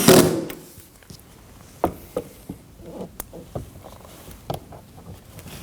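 Screws being fitted back into a car's plastic door panel: a driver's brief run fades out at the start, then scattered light clicks and taps of the tool and fasteners.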